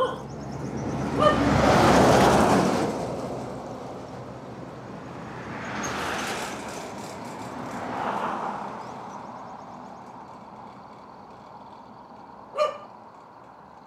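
Vehicles passing on a road, each swelling and fading, the loudest about two seconds in and two fainter ones later. A dog barks once a second in and once near the end.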